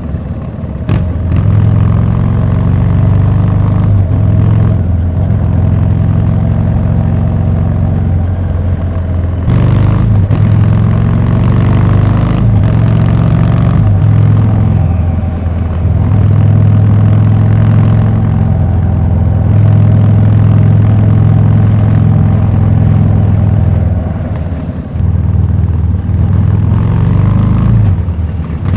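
Harley-Davidson Street 750's V-twin running through a Vance & Hines slip-on exhaust while riding. The engine note holds steady for stretches and changes pitch several times as the throttle changes, easing off briefly near the end.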